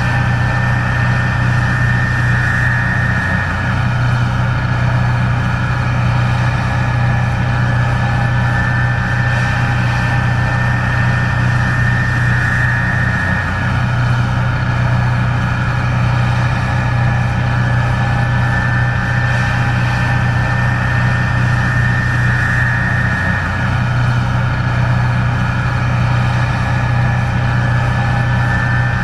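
Case IH 1660 Axial-Flow combine running steadily while harvesting corn: a constant low engine drone with a high whine from the machine's drives over it, dipping briefly about every ten seconds.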